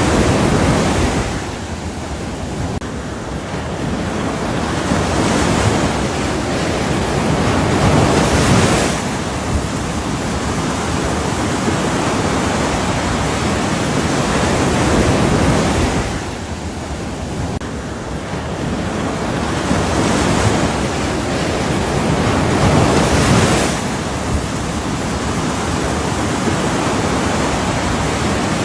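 Ocean surf: a continuous rush of breaking waves that ebbs and swells slowly, fading twice and building back up.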